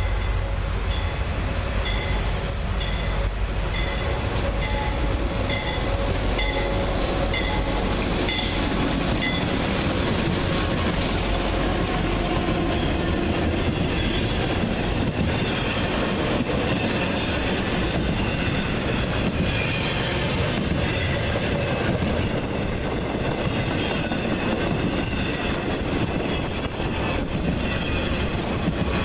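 A train rolling past, its cars and wheels clattering over the rails. For about the first ten seconds a high ringing tone repeats about one and a half times a second.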